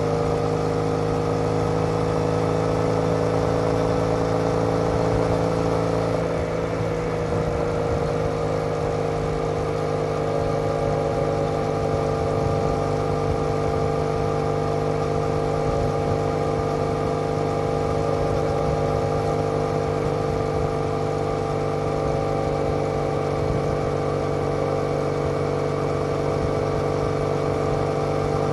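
Triumph Bonneville's parallel-twin engine running through TOGA aftermarket silencers, recorded from on the moving motorcycle at a steady cruise. The engine note shifts briefly about six seconds in, then holds even while slowly sinking in pitch.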